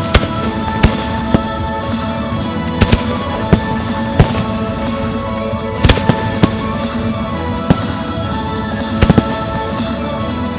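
Aerial firework shells bursting in a dozen or so sharp bangs at irregular intervals. Loud music plays underneath throughout, accompanying the display.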